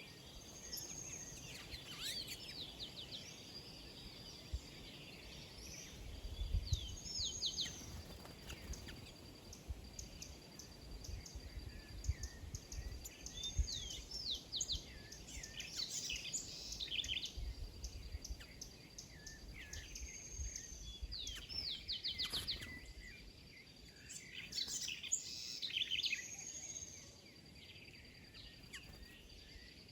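Several small birds chirping and calling: quick repeated chirps and short down-slurred notes in bursts every few seconds, as at a feeding spot.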